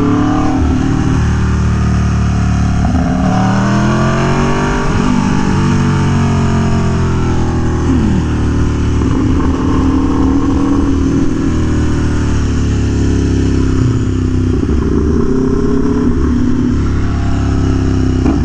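Aprilia Tuono V4 1100 Factory's 65-degree V4 engine through an SC Project CR-T exhaust, heard from the rider's helmet while cruising. About four seconds in, the revs climb and then drop back, and the engine then holds a fairly steady pitch.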